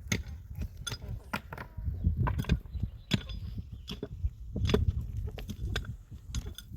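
Irregular sharp knocks and clinks of hard objects being handled and set down during building work, about a dozen in the space, over a rough low rumble.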